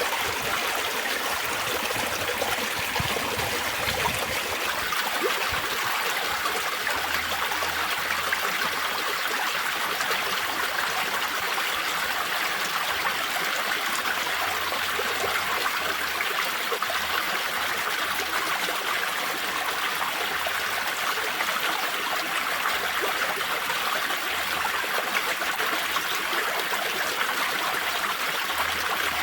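Spring water trickling and burbling steadily over stones in a small stream.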